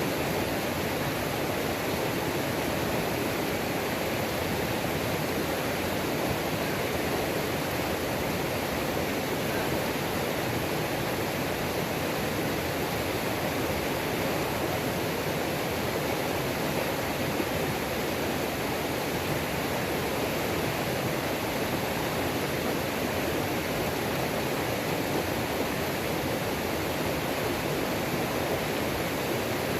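Small waterfall on a mountain creek: a steady, even rush of falling and tumbling water.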